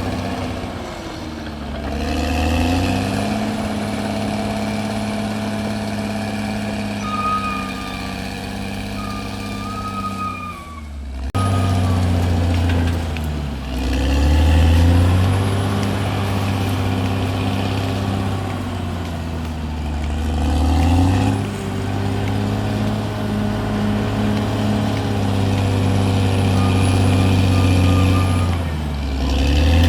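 CAT D6R bulldozer's diesel engine running under load, its pitch sagging and recovering several times as it works.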